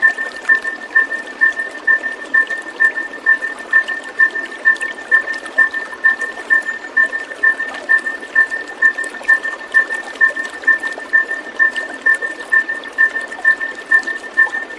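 Running water, like a stream, under a steady high note that pulses about twice a second.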